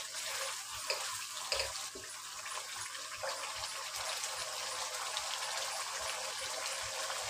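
A potato and tomato-onion masala sizzling steadily in oil in a kadhai, with a few short wooden-spatula scrapes and taps in the first couple of seconds. This is the dry frying (bhuna) stage, after the added water has cooked off.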